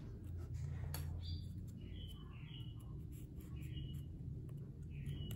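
A steady low hum with short bird chirps repeating every second or so, and a few faint light clicks as balsa sticks are handled.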